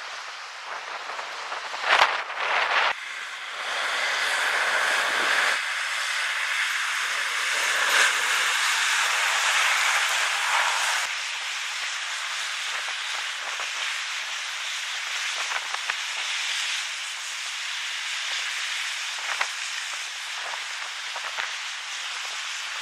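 Steady hiss of strong blizzard wind and blowing snow, swelling louder for several seconds early on and then easing a little, with a few brief sharp knocks.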